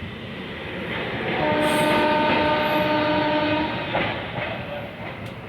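Train horn sounding one long steady blast of a little over two seconds, starting about a second and a half in, over the steady rumble and clatter of a running train.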